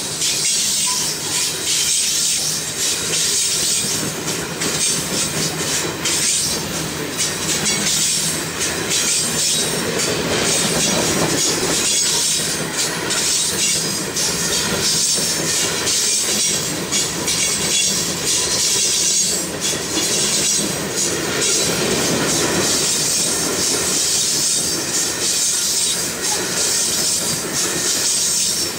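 Heavy freight train of CSX gondola cars rolling past close by: steel wheels running on the rails with a continuous high hiss, and frequent clacks and knocks as the wheels pass over the track.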